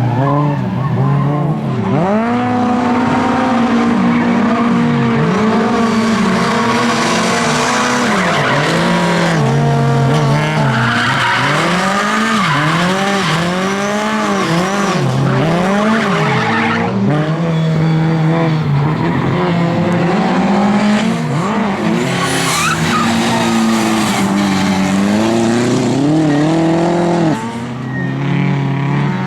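Lada race cars' engines revving hard on a circuit, the pitch climbing and dropping again and again with gear changes and braking, with tyres squealing at times.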